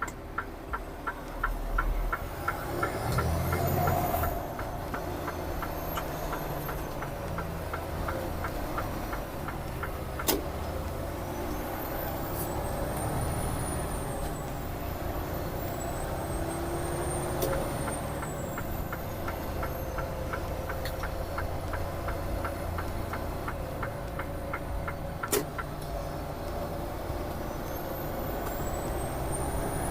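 Semi-truck diesel engine running inside the cab as the truck pulls away and gathers speed, swelling about three seconds in. An even ticking, typical of the turn signal, runs for two long stretches, with a faint high whine rising and falling and a couple of sharp clicks.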